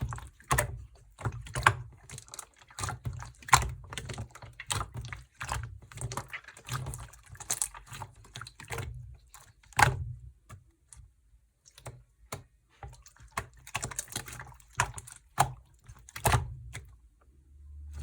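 Hands squishing and poking a semi-transparent slime, making fast, irregular sticky clicks and pops, with a short lull just past the middle.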